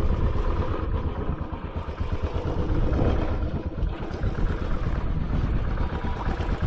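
Royal Enfield Classic 500's single-cylinder engine running while the motorcycle rides along, heard under a heavy, uneven low rumble.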